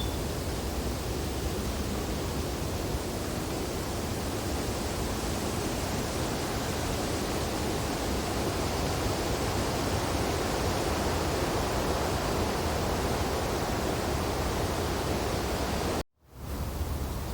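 Wind blowing through tree branches in falling snow: a steady, even noise. Near the end it cuts out abruptly for a moment and fades back in.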